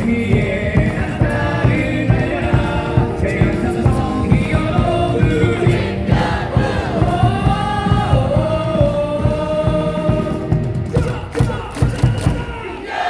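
Stadium cheer song playing loudly, with a crowd of baseball fans singing along in chorus.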